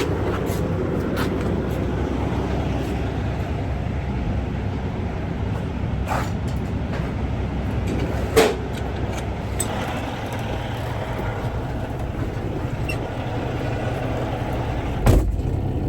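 Semi-truck diesel engine running steadily at low revs, with a couple of short sharp knocks partway through and near the end.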